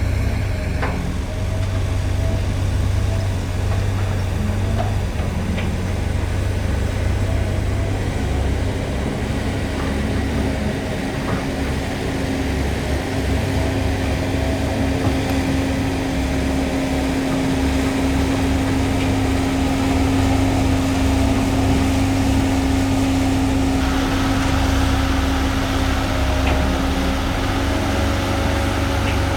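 Diesel engines of heavy construction machinery running steadily, a low rumble with a steady hum over it; a little more hiss comes in about two-thirds of the way through.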